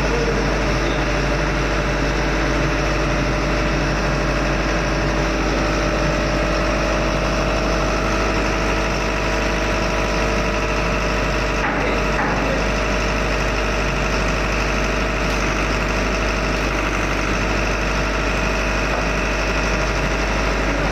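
Engine running steadily in a ship's engine room: a constant drone with steady tones and a low hum, and a brief clatter about twelve seconds in.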